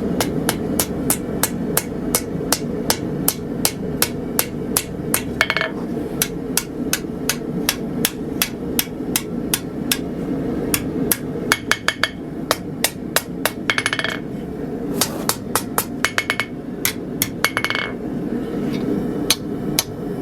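Hand hammer striking a hot 3/16-inch mild steel bar over the edge of an anvil, forging a curl for a knife's D-guard. The blows come steadily at about two to three a second, and every few seconds there is a short run of rapid ringing taps.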